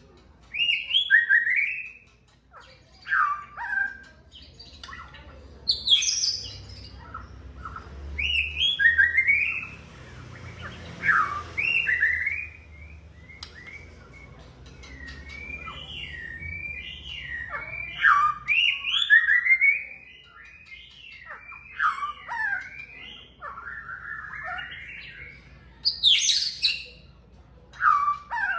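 White-rumped shama (murai batu) singing: a string of loud, varied whistled phrases of quick up-and-down slurred notes, with short pauses between them.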